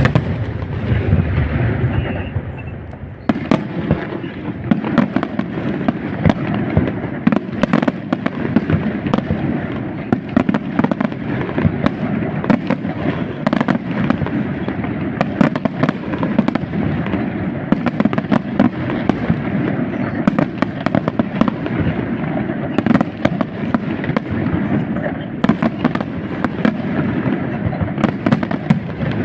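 Aerial fireworks display: a dense, unbroken barrage of shell bursts and crackle, many bangs a second, growing thicker about three seconds in.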